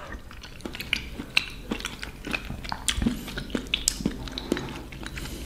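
A person chewing a mouthful of soft risotto close to the microphone: irregular small mouth clicks and smacks.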